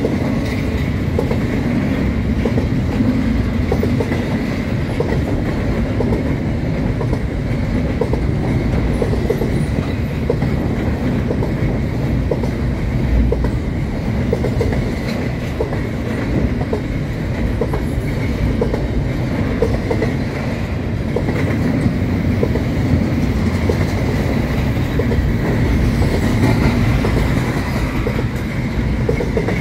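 Double-stack container well cars of a long freight train rolling past: a steady rumble of steel wheels on rail, with irregular clicking from the wheels.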